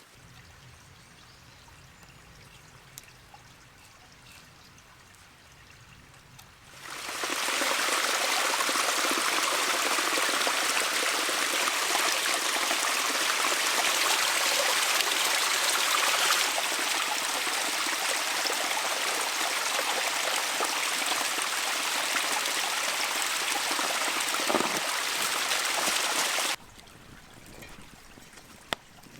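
Stream water running, a loud steady rush that cuts in suddenly about seven seconds in and stops abruptly a few seconds before the end. Faint quiet outdoor ambience before and after it.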